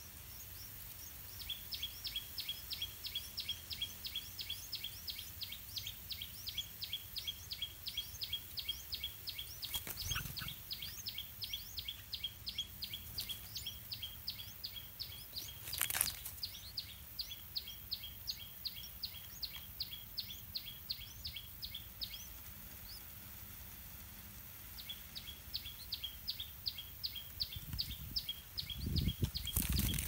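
A rapid, even series of high bird chirps, about five a second, that breaks off a little over twenty seconds in and starts again a few seconds later. Two sharp clicks fall in the middle, and low thumps come near the end.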